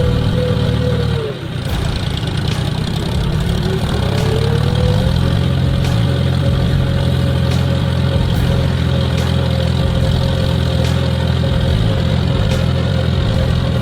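Large tractor diesel engine running hard under load. About a second in, its pitch drops as it bogs down, then climbs back up over the next few seconds and holds steady.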